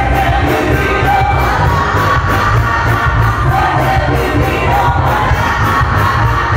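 A live band playing loud with a singer, heavy bass and a fast steady beat, with crowd noise underneath.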